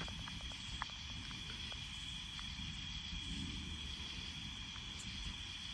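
Steady night insect chorus, a constant high-pitched trill, over an even low rumble.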